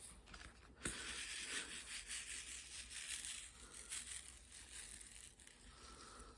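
Rustling and rubbing handling noise from hands at work on a craft canvas, with a sharp click about a second in, fading near the end.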